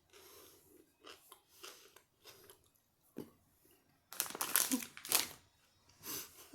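Person chewing a mouthful of pickle and cheese close to the microphone: soft wet crunching at first, then louder crunching about four seconds in and again near the end.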